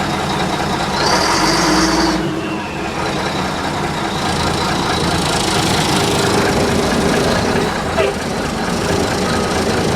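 Fire ladder truck's engine running steadily, heard from the open cab, with a louder burst of hiss about a second in and a short click near the end.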